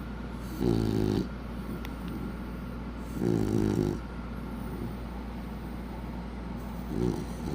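A sleeping dog snoring: three snores about three seconds apart, the first two lasting about half a second and the last one shorter, over a steady low hum.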